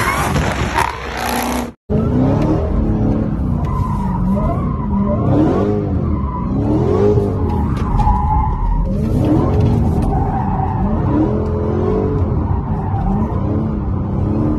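Dodge Charger SRT V8 heard from inside the cabin during a donut or slide, revved up and down over and over while the tyres squeal. A different Charger drives past before a sudden cut about two seconds in.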